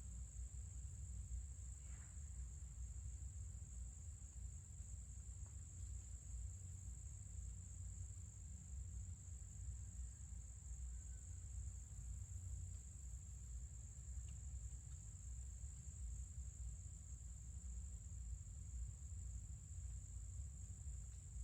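Faint, steady high-pitched insect trilling, like a cricket chorus, holding one unbroken pitch, with a low rumble underneath.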